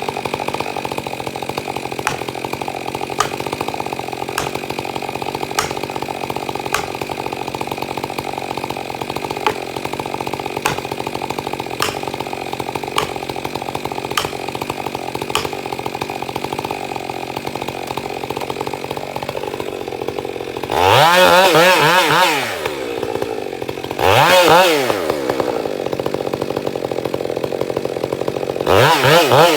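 Chainsaw engine running steadily at low speed, then revved hard to full throttle three times near the end, the pitch climbing and falling with each burst.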